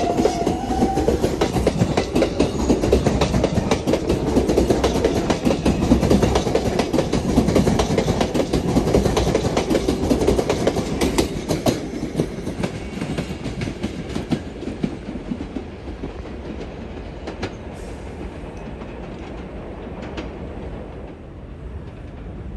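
R142A subway train departing the station, its wheels clattering over the rail joints as it picks up speed, then slowly fading away over the second half.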